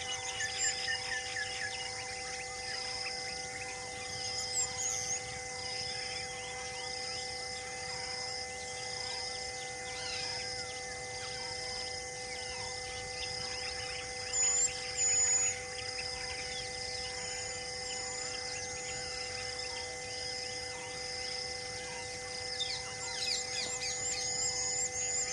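Birds chirping in open countryside over a steady high chirp that repeats a little over once a second and a constant low hum. A louder pair of bird calls comes about halfway through, and birds trill near the end.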